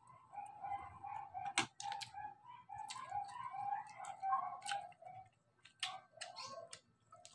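A bird chirping in a quick run of short notes, with a few sharp crunches from chewing crispy fried pork belly.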